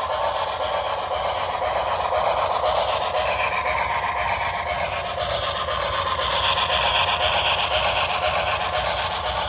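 HO scale model steam locomotive running on track: a steady rushing hiss that slowly swells and eases.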